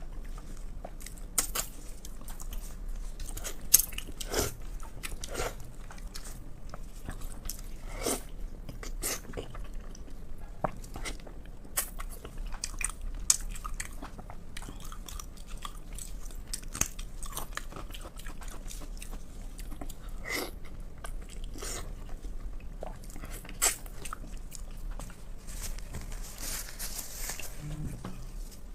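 A person biting and chewing food close to the microphone, with many irregular sharp mouth clicks and a few louder ones.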